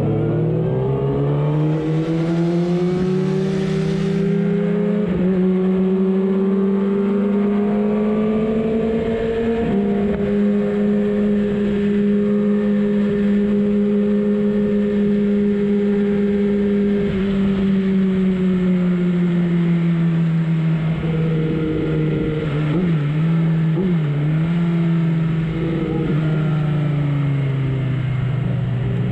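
Racing superbike engine heard onboard over wind rush. It revs up hard at first and holds at high revs for a long stretch, then the revs fall away about two-thirds through, with a few quick blips and dips, before it accelerates again near the end.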